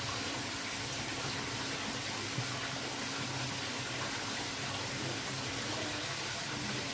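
Steady rushing of water with a faint low hum underneath.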